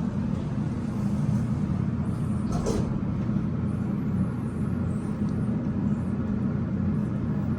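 ThyssenKrupp passenger elevator running, a steady low hum and rumble from the cab, with one brief click about three seconds in.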